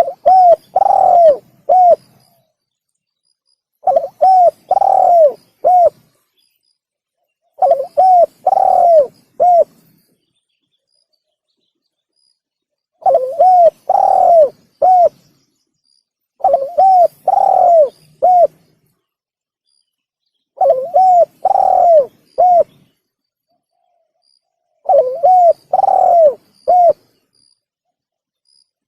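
Spotted dove (tekukur) cooing, a lure call: seven phrases of four or five arching coos each, every few seconds, with silence between them.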